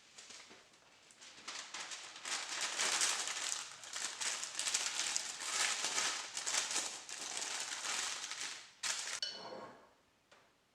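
Dense, irregular crackling and rustling for several seconds, then a sharp click and a brief ringing clink near the end.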